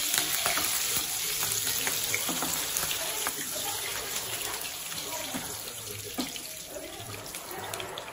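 Green chillies sizzling in hot oil in a non-stick wok, with small taps and scrapes of a wooden spatula. The sizzle slowly fades.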